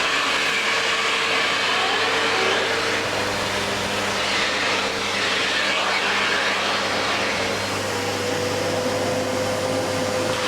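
Household vacuum cleaner running steadily, its hose drawing a child's hair up into a ponytail. The motor's whine rises slightly in pitch near the end.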